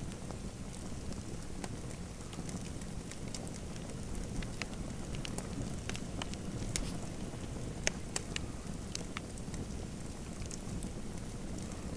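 Fireplace fire crackling: irregular sharp pops and snaps over a steady low rush of burning, with one louder pop about eight seconds in.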